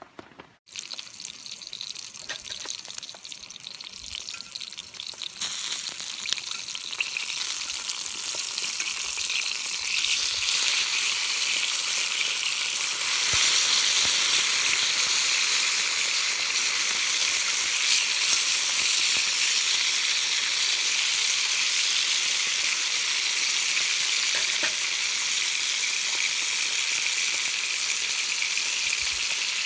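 Food sizzling in a hot frying pan: a steady hiss that grows louder over roughly the first dozen seconds, then holds even.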